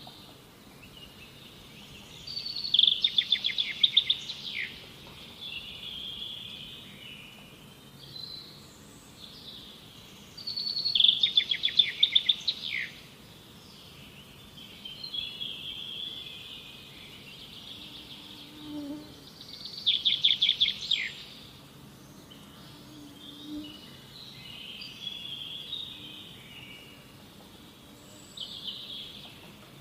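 A songbird singing a loud, fast-pulsed phrase three times, about nine seconds apart, with softer chirps and calls in between over a faint background hum.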